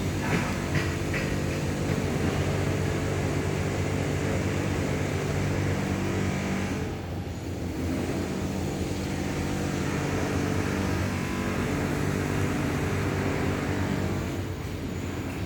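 A motor vehicle's engine running steadily, with a brief dip about seven seconds in and a drop near the end; a few clicks near the start.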